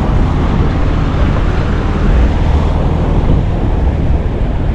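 Wind blowing across the microphone on a small open boat: a steady low rumble with a hiss above it.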